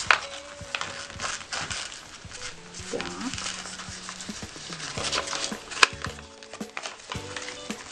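Handling noise of a glossy paper strip being pressed and glued into a cardboard box: scattered crinkles and sharp taps, the loudest right at the start and about six seconds in. Quiet background music plays under it.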